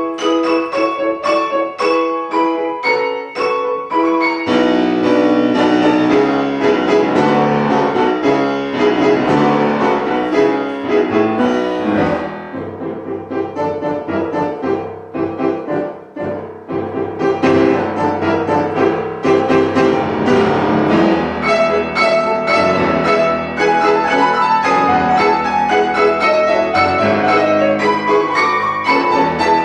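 Classical piano music, busy and loud, with a thinner, quieter passage around the middle before the full texture returns.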